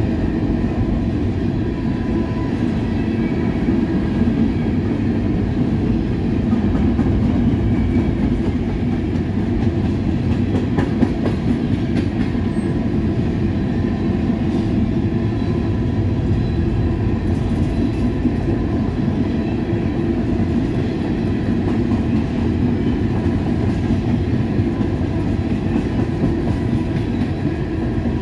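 Freight train of Norfolk Southern covered hopper cars rolling steadily past, its steel wheels running on the rails.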